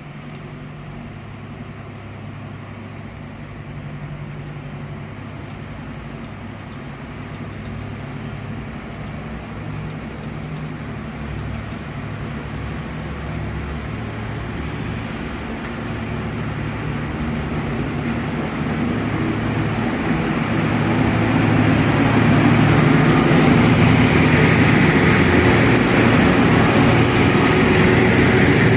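Pair of 15D/A locomotives pulling away with a heavy loaded coal train (about 4000 t), their engines humming low and steady and growing steadily louder as they approach. It is loudest over the last seconds, with a thin high steady tone and rising rolling noise.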